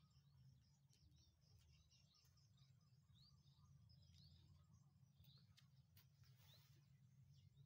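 Near silence: a faint steady low hum with distant birds chirping now and then in short rising chirps.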